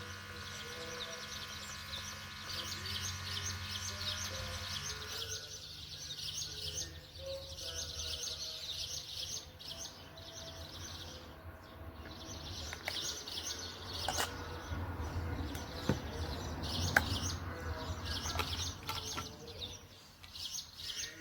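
Many small birds chirping continuously over a low background hum. A steady, many-toned hum cuts out about five seconds in, and a few sharp clicks follow later on.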